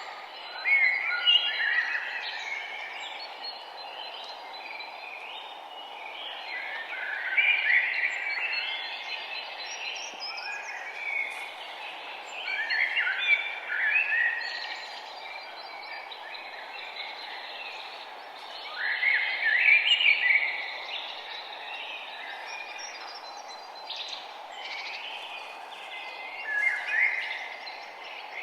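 A songbird singing short warbling phrases, one roughly every six seconds, over a steady background noise of the outdoors.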